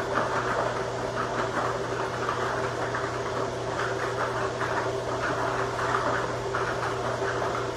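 Lottery-style ball machines running: a steady motor hum with the numbered balls tumbling and rattling around inside in a dense, irregular clatter.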